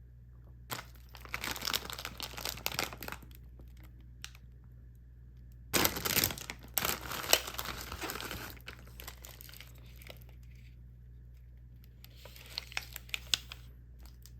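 Plastic packaging of a frozen pizza bun being crinkled and torn open, in two bouts of rustling, the second louder, with a few sharp clicks near the end.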